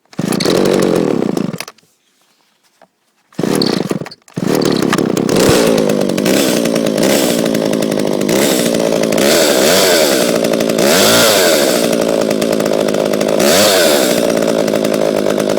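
John Deere 25EV two-stroke chainsaw cold-started on choke: it fires and dies twice, then catches about four seconds in and keeps running, the revs rising and falling a few times.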